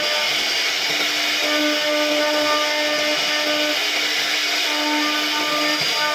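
CNC router spindle running and cutting wood with a steady whine and hiss, its pitched hum coming and going slightly as the bit moves through the carving.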